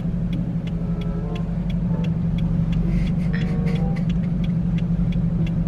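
Steady low drone of a car heard from inside the cabin, with faint light ticks running through it.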